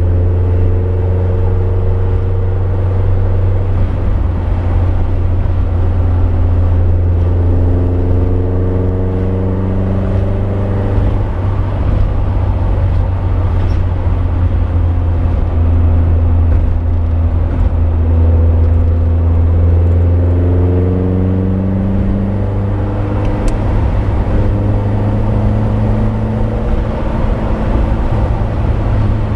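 Lotus Europa Twin Cam's four-cylinder twin-cam engine pulling along at road speed from inside the car, its pitch climbing several times as it accelerates and dropping back between, over a steady low rumble.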